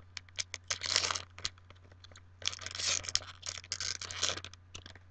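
A foil booster pack wrapper being torn open and crinkled, in irregular crackling bursts, the longest about a second in and from two and a half to four and a half seconds in. A steady low hum runs underneath.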